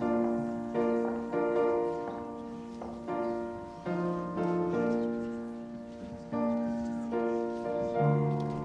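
Piano playing a slow, measured tune in chords, each struck and left to ring and fade before the next, about one a second.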